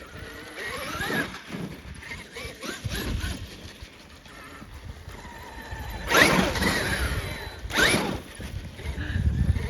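Traxxas X-Maxx 8S RC monster truck driving over rough ground: its brushless electric motor whines and its tyres churn the terrain, with two loud bursts of throttle about six and eight seconds in.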